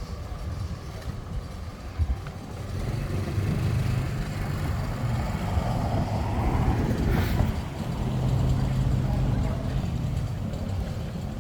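Road traffic passing close by: a low engine rumble that swells from about three seconds in and eases near the end, with a short sharp noise about seven seconds in.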